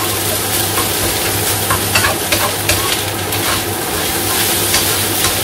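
Egg fried rice sizzling in a wok as a spatula stirs and turns it, with a steady frying hiss and scattered short scrapes and taps of the spatula against the pan.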